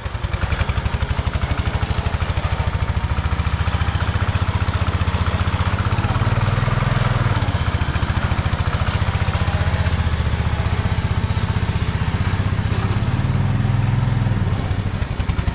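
Ford garden tractor engine running close by with a rapid, even firing beat, its speed rising briefly twice, about six and thirteen seconds in.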